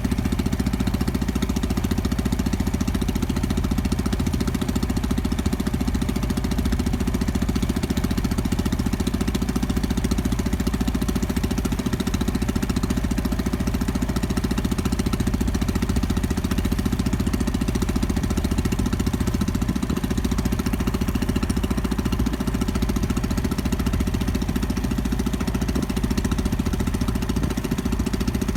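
A fishing boat's engine running steadily at an even speed, a continuous low chugging with no change in pace.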